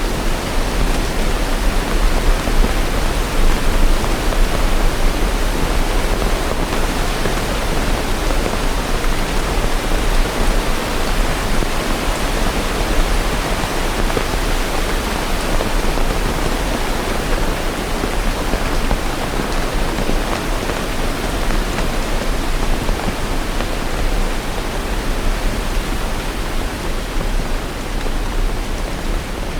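Steady rain falling, a dense, even hiss with a low rumble underneath and no separate drops or thunderclaps standing out.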